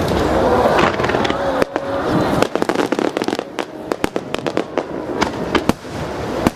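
Aerial fireworks bursting in a rapid barrage, many sharp cracks and bangs close together, densest in the middle, over crowd noise.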